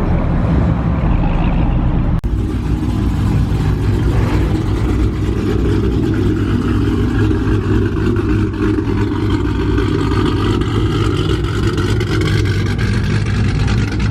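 Loud, steady running of a car engine at a muscle-car meet, with some revving.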